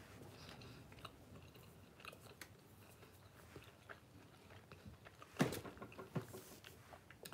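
A person chewing food with small, faint mouth clicks, and one louder noise about five and a half seconds in.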